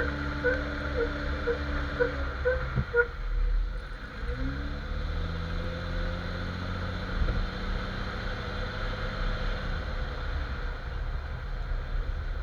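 Jeep XJ under way with a repeating front end squeak, about two chirps a second for the first three seconds, over the engine and road noise. The squeaks then stop as the engine pitch rises and holds. The owner takes the squeak for a front U-joint and also suspects the steering stabilizer rubbing the track bar.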